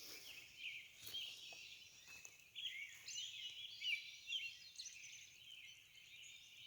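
Many songbirds singing together in a morning chorus: fairly faint, overlapping short chirps and quick whistled notes that rise and fall, with no single bird standing out.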